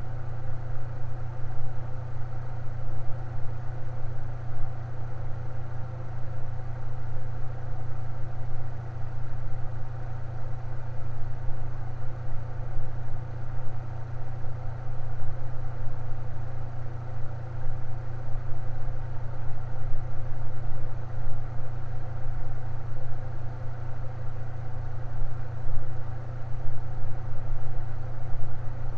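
Electric fan running steadily: a constant low hum with a softer whir above it.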